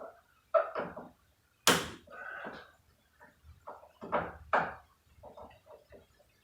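A string of short, sharp knocks and clacks from hand work on the truck cab's door and rain gutter, the loudest about two seconds in.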